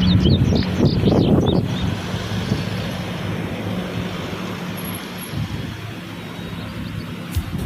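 Road traffic rumble with a vehicle engine's steady low hum, slowly fading. Birds chirp during the first second or so.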